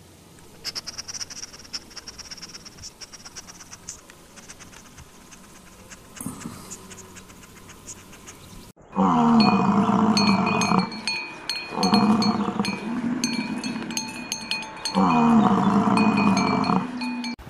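Faint clicks and rustling for about nine seconds, then three long, loud lows from Highland cattle, each about two seconds, with bright chime-like ringing alongside.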